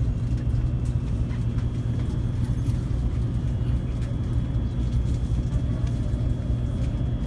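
Low, steady rumble inside the passenger cabin of a Taiwan High Speed Rail train as it sets off, with a faint steady high whine above it.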